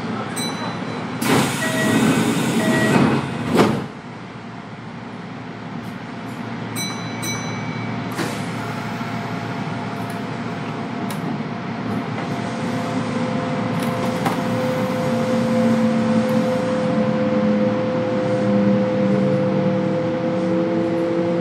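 Kintetsu electric train leaving a station, heard from inside the car. The doors close about a second in with a loud rush of air and a short chime. Then the train pulls away, its traction motors whining in tones that rise in pitch as it gathers speed.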